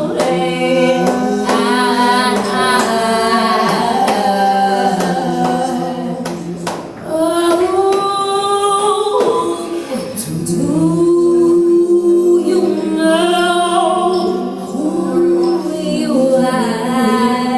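A woman singing a slow, wavering melody with long held notes over steady lower sustained notes, a few taps among them.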